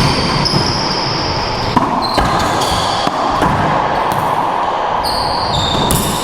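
Racquetball rally: a hard rubber ball cracks off racquets and the court walls several times, at irregular intervals, over a steady hiss of court noise.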